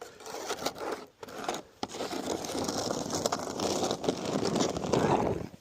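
Snow shovel blade pushed across the driveway, scraping through snow: a few short scrapes and knocks, then one long continuous push from about two seconds in that stops sharply near the end.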